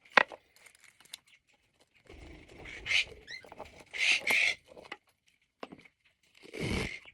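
Vet wrap being pulled off the roll and wound around a cage perch, rustling in about four short bursts.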